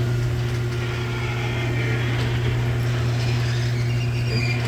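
Garage door opener running with a steady low hum.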